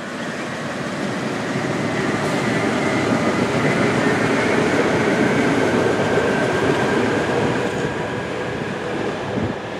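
PATCO Hi-Speed Line electric rapid-transit train passing on the rails: a steady rolling rumble of wheels on track that builds to a peak mid-way and eases off toward the end, with a faint steady whine over it.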